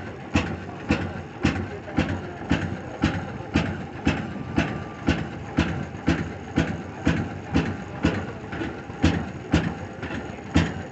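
Old gas engine running slowly and evenly, each firing a sharp exhaust pop, about two pops a second.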